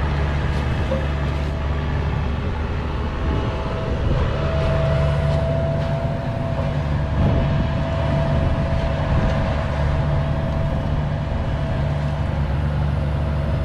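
Heavy-equipment diesel engine running steadily while moving dirt, with a steady high whine over it through the middle.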